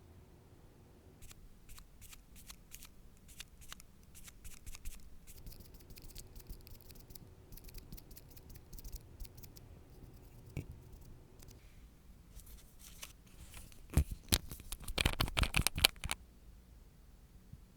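Small sharp clicks and taps from nail-art tools and materials being handled at close range, scattered at first, then a burst of rapid, louder clicking and scraping about fourteen seconds in that stops abruptly.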